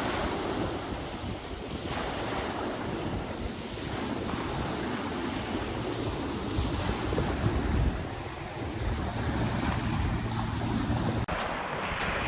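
Wind rushing and rumbling over the microphone, with water-like noise under it. It changes abruptly near the end to a duller, quieter sound.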